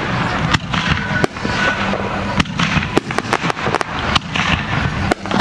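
Aerial fireworks bursting in rapid succession, a dense run of sharp bangs and crackling over a continuous rumble.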